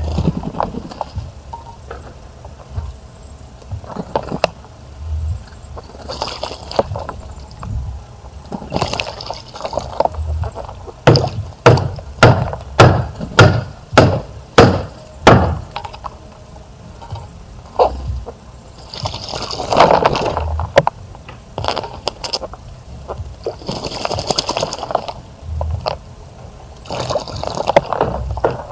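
Small birds splashing in a bird bath in short bursts of water noise, with a quick run of sharp, loud splashes about two to three a second in the middle.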